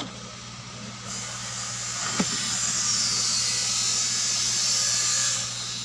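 A steady rushing hiss like air from a small blower, swelling about a second in and easing near the end, with a single click about two seconds in, over a low steady electrical hum.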